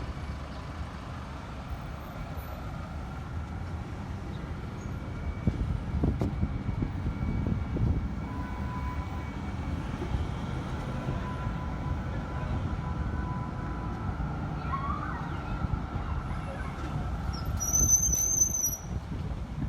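Tram running, with a steady low rumble and several steady high whining tones over it. A short rising whine comes about 15 seconds in, and a brief high squeal near the end.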